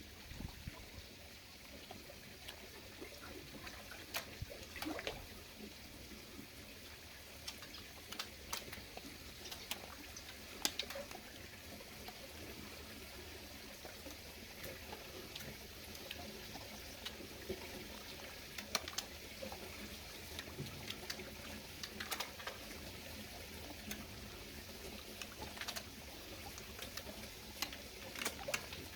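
Faint steady trickle of water, with scattered light clicks and ticks.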